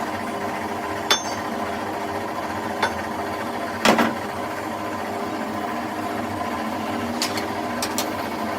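A workshop machine running with a steady hum, with a few sharp metallic knocks over it. The loudest knock comes about four seconds in.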